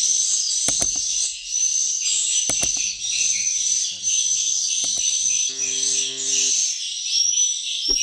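Swiftlets twittering: a dense, high, unbroken chatter of chirps, with a few sharp clicks, some in quick pairs. About two-thirds through, a low steady hum sounds for about a second.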